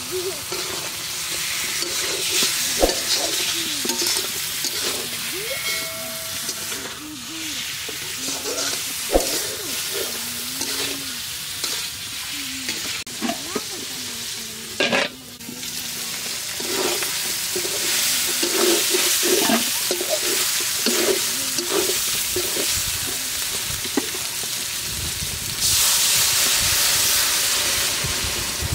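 Food sizzling as it fries in a hot pan while a spatula stirs and scrapes it. The sizzling drops out briefly about halfway through and gets louder for a couple of seconds near the end.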